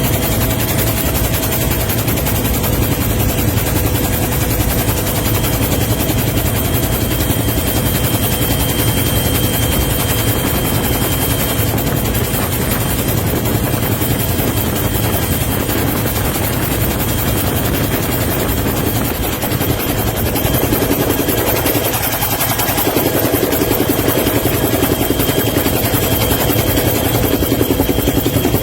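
Helicopter running steadily: a fast, even rotor chop with a steady whine, growing a little louder about two-thirds of the way in.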